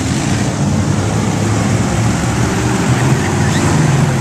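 A monster truck's engine running loud and steady.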